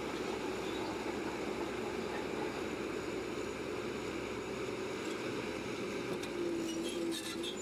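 Bulldozer running steadily: a continuous machine drone, with a clearer steady tone coming in near the end.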